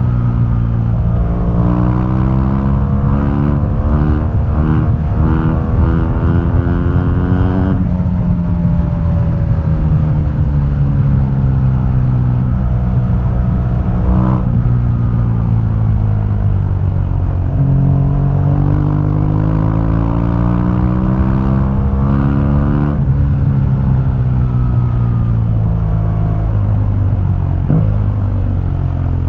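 2015 BMW R1200GS liquid-cooled boxer twin through its stock exhaust, running under way. Its pitch rises as it accelerates, drops sharply at gear changes about eight seconds in and again near the end, and falls slowly as it slows in between.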